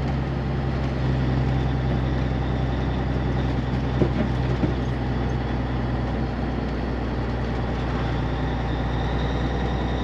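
A heavy truck's diesel engine running steadily under way, heard from inside the cab along with road noise. There are a couple of light knocks about four seconds in.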